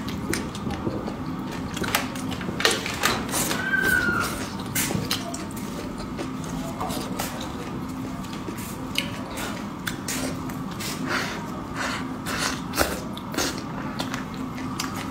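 Close-miked eating: chewing and wet mouth smacking with many short sharp clicks, as braised pig's ear and peppers are eaten with chopsticks, over a faint steady hum.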